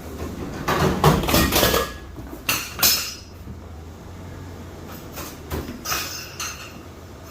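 Heavy HP Designjet plotter being lowered off a pickup truck bed on a rope, knocking and scraping against the truck: a loud clattering stretch about a second in, two sharp knocks just before three seconds, and lighter knocks near six seconds.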